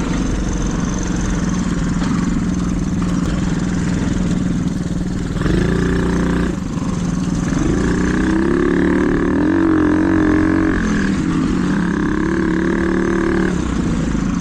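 Small dirt bike's engine running under changing throttle on a trail ride, its note rising and falling again and again. It dips briefly about six seconds in and wavers unsteadily around ten seconds in.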